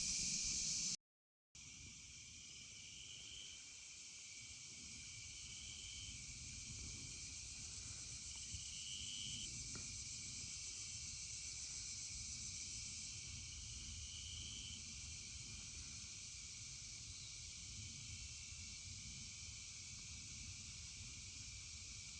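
Night insects chirring steadily and faintly, with a brief complete dropout about a second in.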